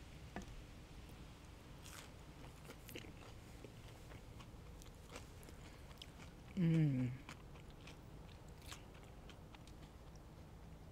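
Close-miked chewing of fried jalapeño poppers, with faint scattered wet mouth clicks and crunches. About two-thirds of the way through comes a brief, louder falling hum from the eater, like an 'mm'.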